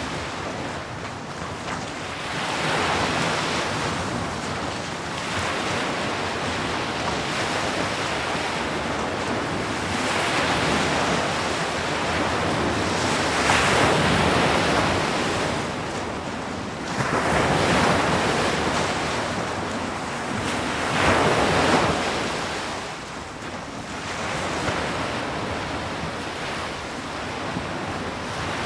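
Sea waves breaking on a shore, the surf rising and falling in swells every few seconds, with a few louder breakers near the middle.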